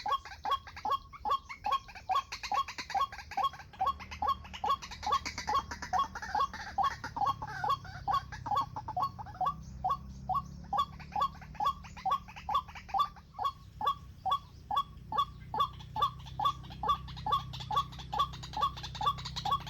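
White-breasted waterhen calling: one short note repeated steadily, about two and a half times a second.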